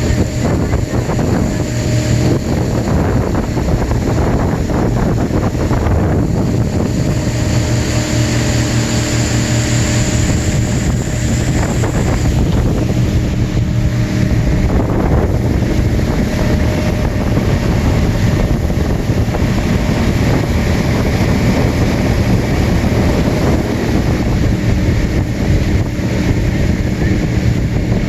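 Antique wooden motorboat's engine running steadily under way, with wind buffeting the microphone.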